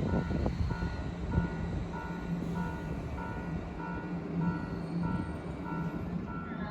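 Electronic warning beeps alternating between two pitches, about three a second, over the steady low hum of a stopped or slow train.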